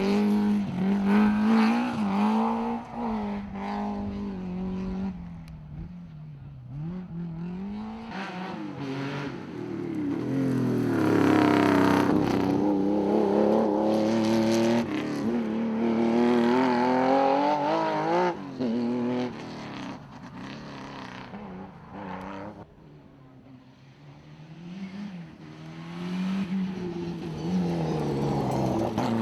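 Rally car engines at speed, revving up and dropping back through the gears as cars approach and pass. The sound swells and fades several times: loud at first, louder again through the middle, nearly gone about two-thirds of the way in, then building again near the end.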